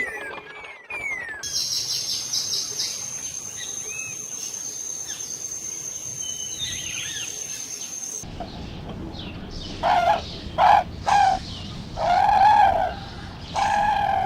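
Small birds chirping over a steady high-pitched whine for the first half. The clip then changes abruptly to a sheep bleating five times, each call short, with the fourth the longest.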